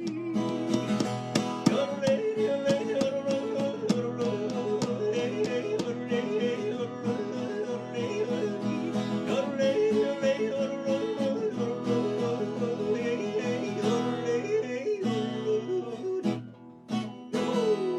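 Acoustic guitar strumming chords in an instrumental break, with a wavering melody line carried over the top; the playing drops away briefly near the end before a voice comes back in with a rising note.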